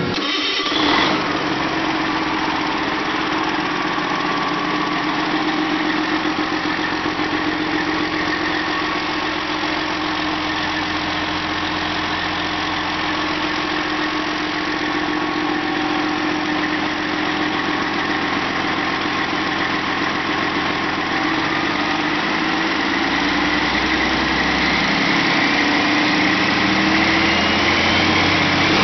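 Detroit Diesel Series 60 14.0L inline-six diesel engine, with about 804,000 miles on it, running steadily at idle. Its pitch rises slowly over the last several seconds as engine speed picks up.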